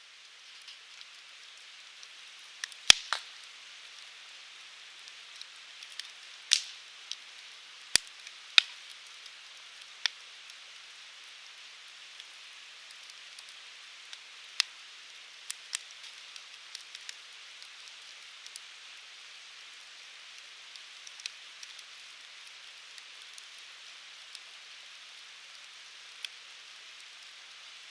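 Burning firewood crackling and popping over a steady soft hiss, with sharp irregular pops, a few louder ones about three and eight seconds in.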